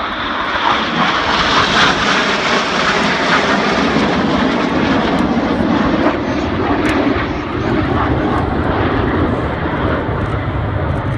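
A formation of BAE Hawk T1 jets flying past with a loud jet roar. The roar is strongest about two seconds in, then drops lower in pitch as the jets move on.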